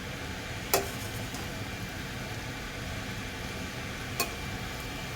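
Fried rice being stirred in a pan over the flame: a steady frying hiss, with two sharp metallic clinks of the spatula against the pan, the first about a second in with a short ring, the second near the end.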